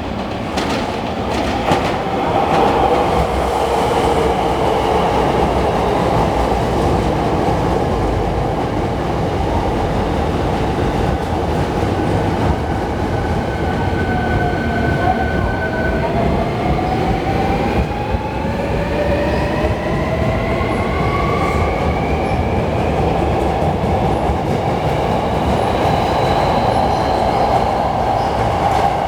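Hankyu electric train at a platform, its wheels rumbling on the rails. From about halfway, the motor whine dips and then climbs in pitch in several rising steps as the train accelerates, then levels off near the end.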